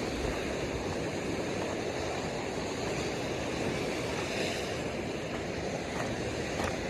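Ocean surf washing along the shore with wind, a steady, even rush.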